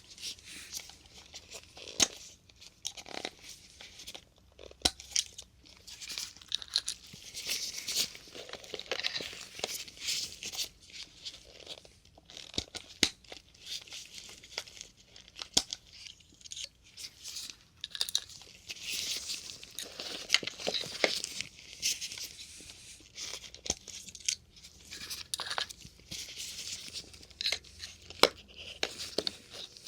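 Plastic syringe caps being pulled off one after another, close-miked for ASMR. Crinkly plastic rustling is broken by several sharp clicks and pops.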